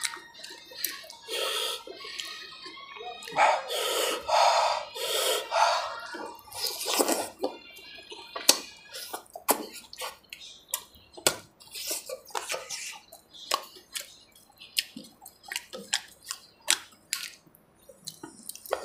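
Close-miked wet chewing and lip smacking from someone eating with their hands, with many short sharp clicks, some of them fingers picking at food on a steel plate.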